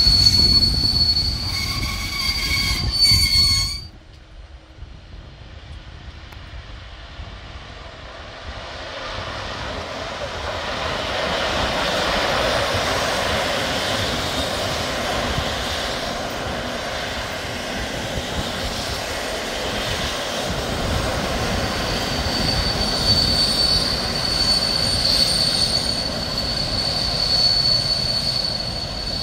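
Electric trains running through a station. First comes heavy rail rumble with a high steady wheel squeal, which cuts off abruptly about four seconds in. Then an EU07 electric locomotive and its coaches roll in on the near track, their noise building. A high steady squeal sets in over the last several seconds as the train comes to a halt.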